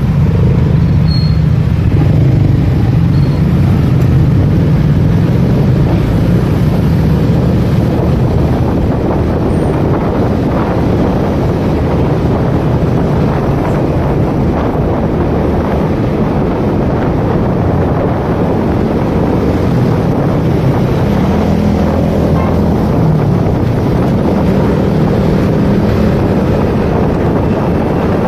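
Motorcycle engine running while riding, under steady wind rush on the microphone. The engine hum is strongest at first, drops back in the middle and picks up again about twenty seconds in.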